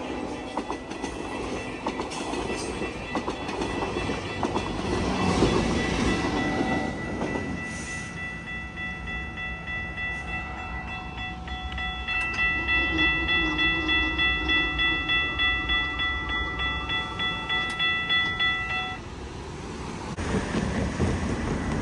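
GO Transit commuter train passing, with its pushing MP40PH-3C diesel locomotive rumbling and the wheels running on the rails. A steady ringing tone pulses about twice a second through the middle and stops suddenly a few seconds before the end.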